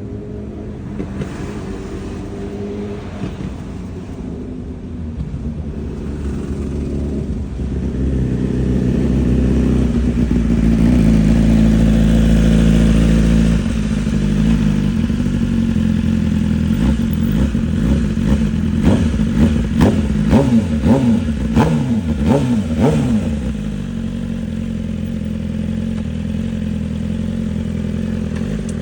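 BMW S1000RR inline-four engine through a titanium full exhaust. It runs steadily and grows louder about a third of the way in. Past the middle it is revved in a quick string of rises and falls, then settles back to a steady note.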